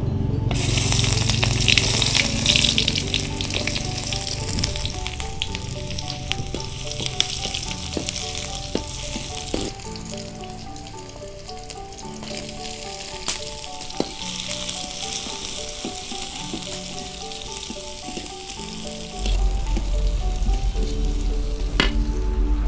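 Sliced shallots and garlic sizzling in hot oil in a steel wok, loudest in the first few seconds after they go in, with the metal ladle clinking and scraping against the wok as they are stirred.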